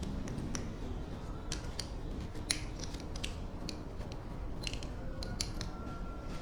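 A dozen or so light, irregular metallic clicks and ticks, typical of small metal parts and hand tools being handled.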